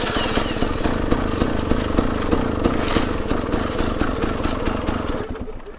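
KTM 300 EXC two-stroke dirt bike engine running at a fairly steady speed under the rider, with many short ticks over it; it quietens near the end.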